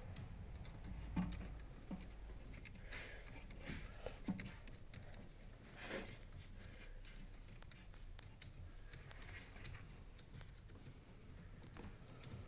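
Faint scattered clicks and knocks over a low steady hum, with the sharpest knocks about a second in and about four seconds in.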